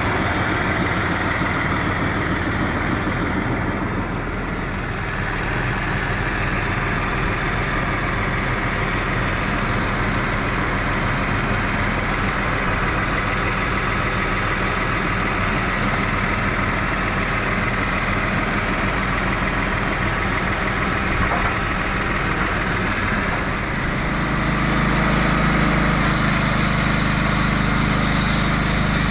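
A heavy machine's engine running steadily. About 24 seconds in it gets louder, with a higher rushing hiss added on top.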